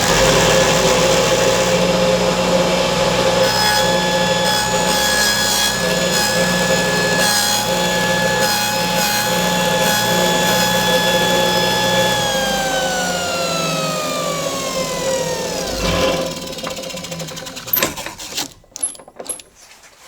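Table saw with a 3/8-inch dado stack running steadily as the spinning blade is raised up into a sacrificial fence board to cut about half an inch into it. About twelve seconds in it is switched off and its whine falls in pitch as the stack spins down, ending with a knock and a few small clicks.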